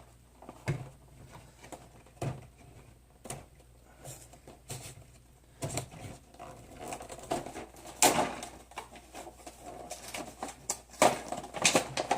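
Plastic blister and cardboard packaging of a Hot Wheels 5-pack being cracked and torn open by hand: scattered clicks and knocks at first, then denser crinkling and tearing from about six seconds in, loudest around eight seconds and near the end.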